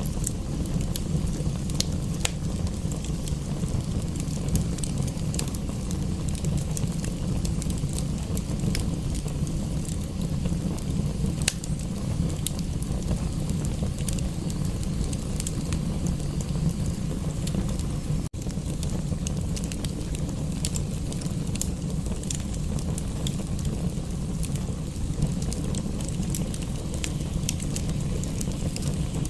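Wood fire in a fireplace crackling, with scattered sharp pops over a steady low rumble. The sound cuts out for an instant a little past the middle.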